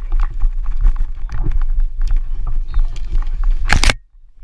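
Wind rumbling on the microphone, with scattered sharp clicks and knocks. Near the end a loud rough burst, after which the sound cuts out abruptly.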